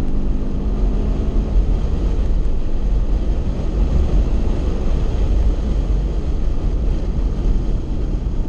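2016 Chevrolet Camaro SS V8 under power at track speed, heard from inside the cabin as a steady heavy roar mixed with road and wind noise. A clear engine note in the first second or so gives way to a rougher rumble.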